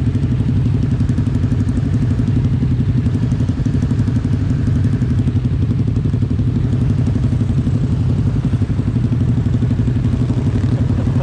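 Kawasaki Z250 parallel-twin engine with an aftermarket SeaPro muffler, exhaust running at steady revs while riding.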